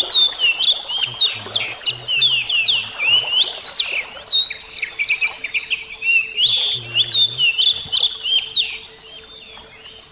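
Oriental magpie-robin (kacer) singing a fast, varied run of whistles and chirps that stops about nine seconds in.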